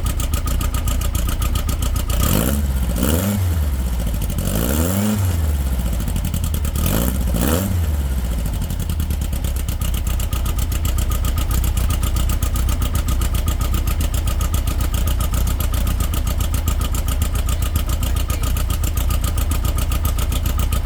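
Fresh Volkswagen engine running on its first start-up. It is revved three times in quick succession between about two and eight seconds in, each rev rising and falling, then settles into a steady, even idle.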